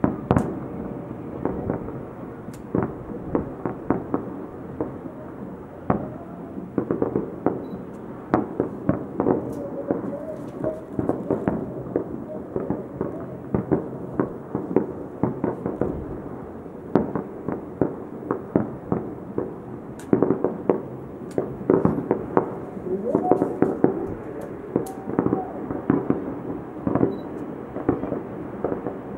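Fireworks salute: an uneven, rapid run of sharp bangs, often several a second, one after another.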